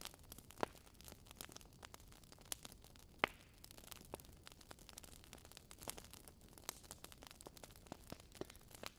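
Campfire crackling: irregular small pops and snaps over a faint hiss, with one louder snap about three seconds in.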